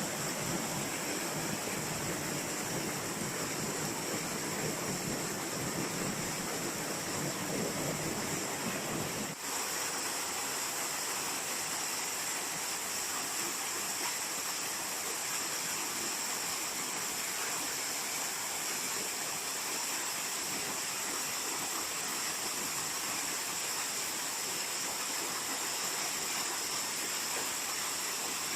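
Waterfall rushing steadily. About nine seconds in, the sound changes abruptly to a thinner, hissier rush.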